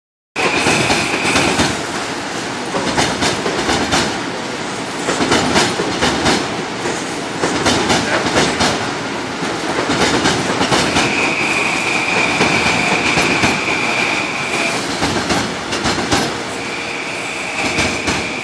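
Metro-North M8 electric commuter train passing at close range: a rapid clatter of wheels over rail joints and switches. A steady high wheel squeal comes and goes: briefly at the start, for about four seconds from about eleven seconds in, and again near the end.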